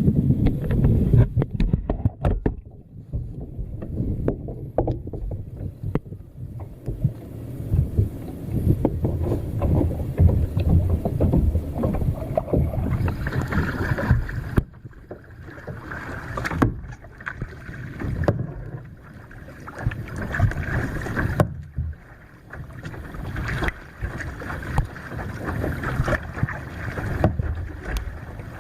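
Water splashing and sloshing around a paddled kayak, in irregular low rumbling noise with scattered clicks.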